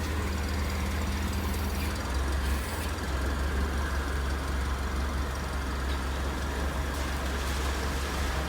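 A truck engine idling with a steady low hum.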